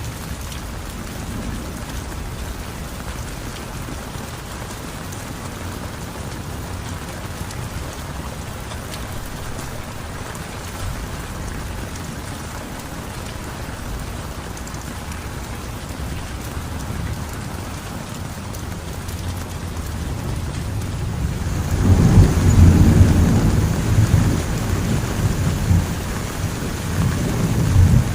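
Heavy rain falling steadily. Near the end a loud, low rumble of thunder breaks in and rolls on for several seconds.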